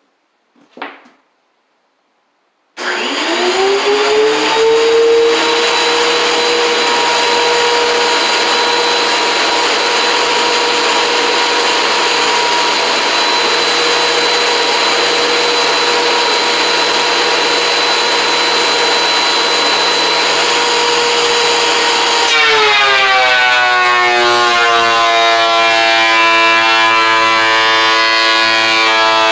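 WEN 13-inch benchtop thickness planer starting up about three seconds in, its motor whining up to speed and then running steadily. Near the end its pitch drops and the sound roughens as the motor takes a load, as a rough-cut cedar board feeds through the cutterhead.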